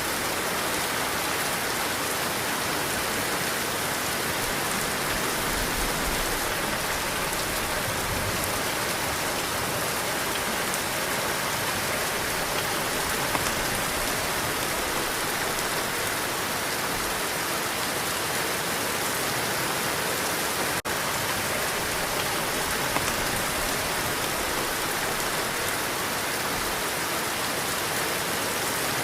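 Heavy rain falling steadily, a dense even hiss, with one momentary dropout about two-thirds of the way through.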